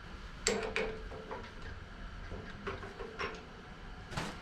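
Metal hole saws and tools clinking and clattering as they are handled, a few separate knocks with a short metallic ring.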